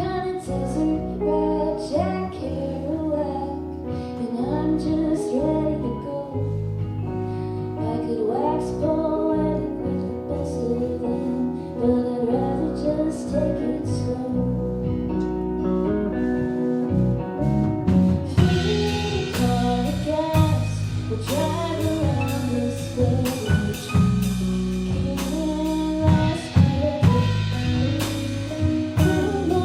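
A rock band playing live, with vocals over guitar, bass and drums. About two-thirds of the way through the drums open up into steady cymbal hits and the sound gets fuller.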